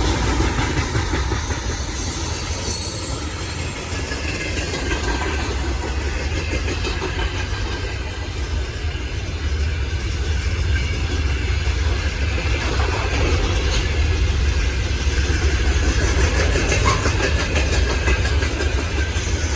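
Freight train rolling past, a steady rumble of steel wagon wheels on the rails, with faint regular clicks later on.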